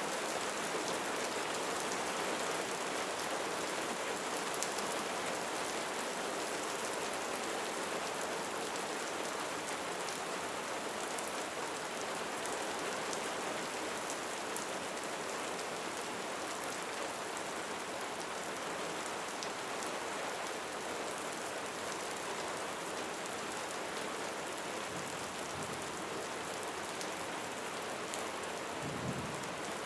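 Steady heavy rain drumming on a roof, an even dense patter with no letup. A brief faint low thump comes near the end.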